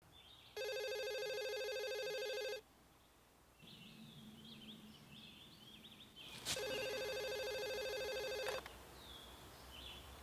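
Telephone ringing twice: two trilling rings of about two seconds each, roughly four seconds apart.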